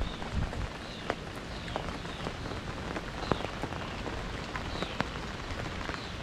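Steady rain falling, an even hiss with scattered sharp taps of single drops landing close by.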